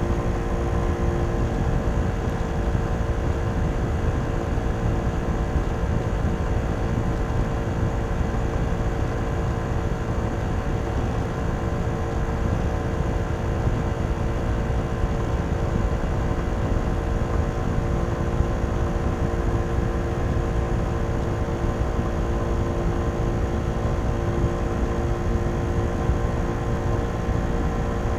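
Kymco Downtown 125i scooter's single-cylinder four-stroke engine on its stock exhaust, running at a steady speed with a low rushing noise underneath.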